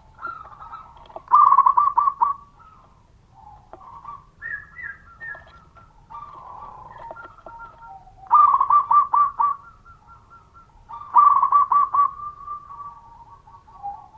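Zebra dove (perkutut) singing: three loud phrases of rapid, stuttering cooing notes, each about a second long, with quieter calls between the phrases.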